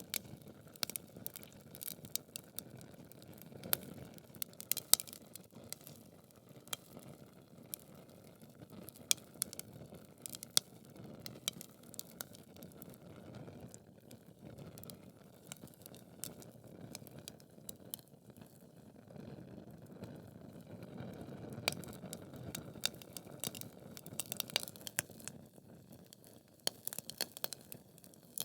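Wood fire burning in a fireplace: logs crackling with irregular sharp pops and snaps over a low rushing of the flames.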